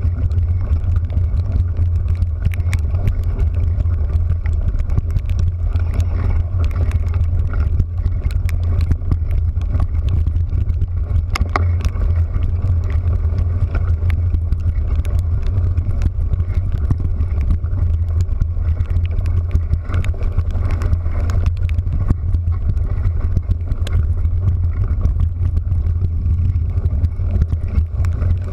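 Steady low engine drone of a vehicle under way, with many small irregular ticks over it.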